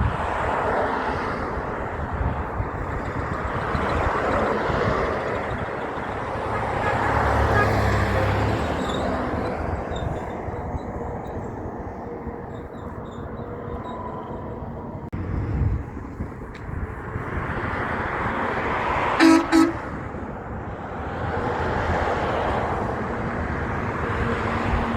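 Road traffic passing in waves, with heavy vehicles going by, and two short horn blasts about three-quarters of the way through.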